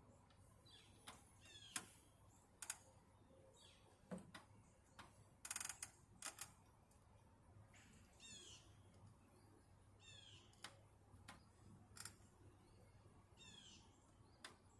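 Faint bird calls: a few short chirping phrases of quick falling notes, repeated every couple of seconds, with scattered sharp clicks and taps in between.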